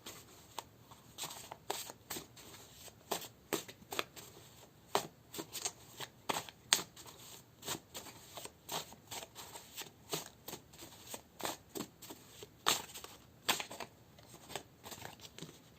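A deck of tarot cards being shuffled by hand: an irregular run of light card snaps and slaps, a few each second.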